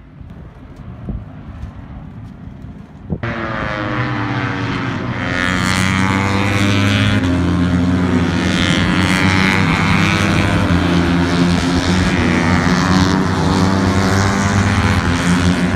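An aircraft passing low overhead, a loud steady engine drone with slowly shifting, sweeping overtones. It starts suddenly about three seconds in, before which there is only faint outdoor background.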